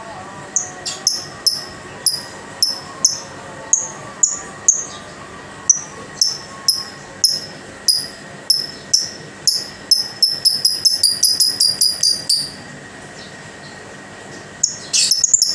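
Lovebird calling in short, high, falling chirps, about two a second at first. It quickens into a rapid chattering run, which breaks off abruptly. A short burst of chatter comes near the end.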